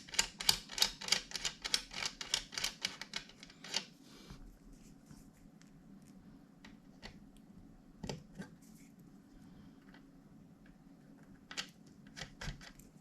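A fast, even run of sharp mechanical clicks, about four a second, lasting some four seconds, then a few scattered clicks. These are bench-setup sounds while test voltage goes to a dead 12 V–220 V inverter, which gives no hum or whine of its own.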